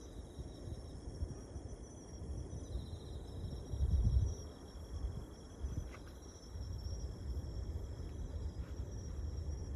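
Insects trilling steadily in high, continuous tones over a low rumble, which swells briefly louder about four seconds in.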